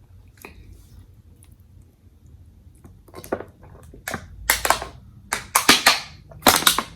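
Crunchy food being bitten and chewed close to the microphone, starting about three seconds in as a run of loud, sharp crackling crunches in several clusters.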